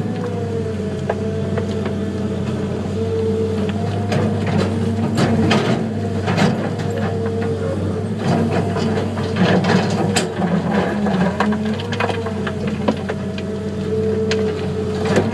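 Heavy diesel earthmoving machines, an excavator and a wheel tractor-scraper, running steadily under load. Repeated knocks and clanks of sandstone and the steel bucket come through as the scraper is loaded.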